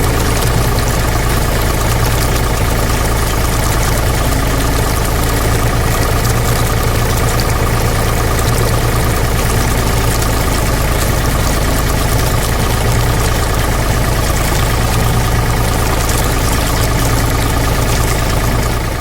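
A small engine running steadily at constant speed, with a strong low hum under a dense mechanical rattle.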